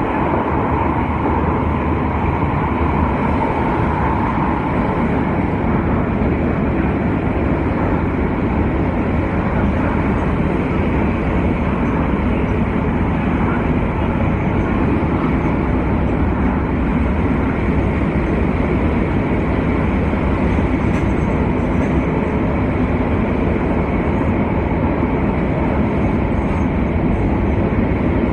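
TranzAlpine passenger train running steadily along the track, a continuous rumble of wheels on rails, with a high tone that fades out over the first few seconds.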